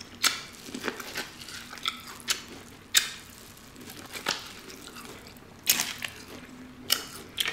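Close-miked biting and chewing of seasoned corn on the cob, with irregular wet clicks and smacks from the mouth.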